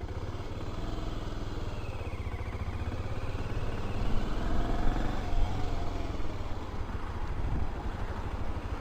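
BMW F650 CS motorcycle's single-cylinder engine running with a rapid, low exhaust beat, swelling a little around the middle.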